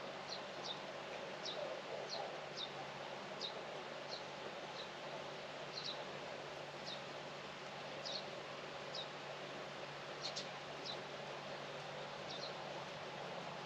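A small bird chirping repeatedly: short, high, downward-sliding notes at irregular intervals of about one a second, over a steady outdoor background hiss.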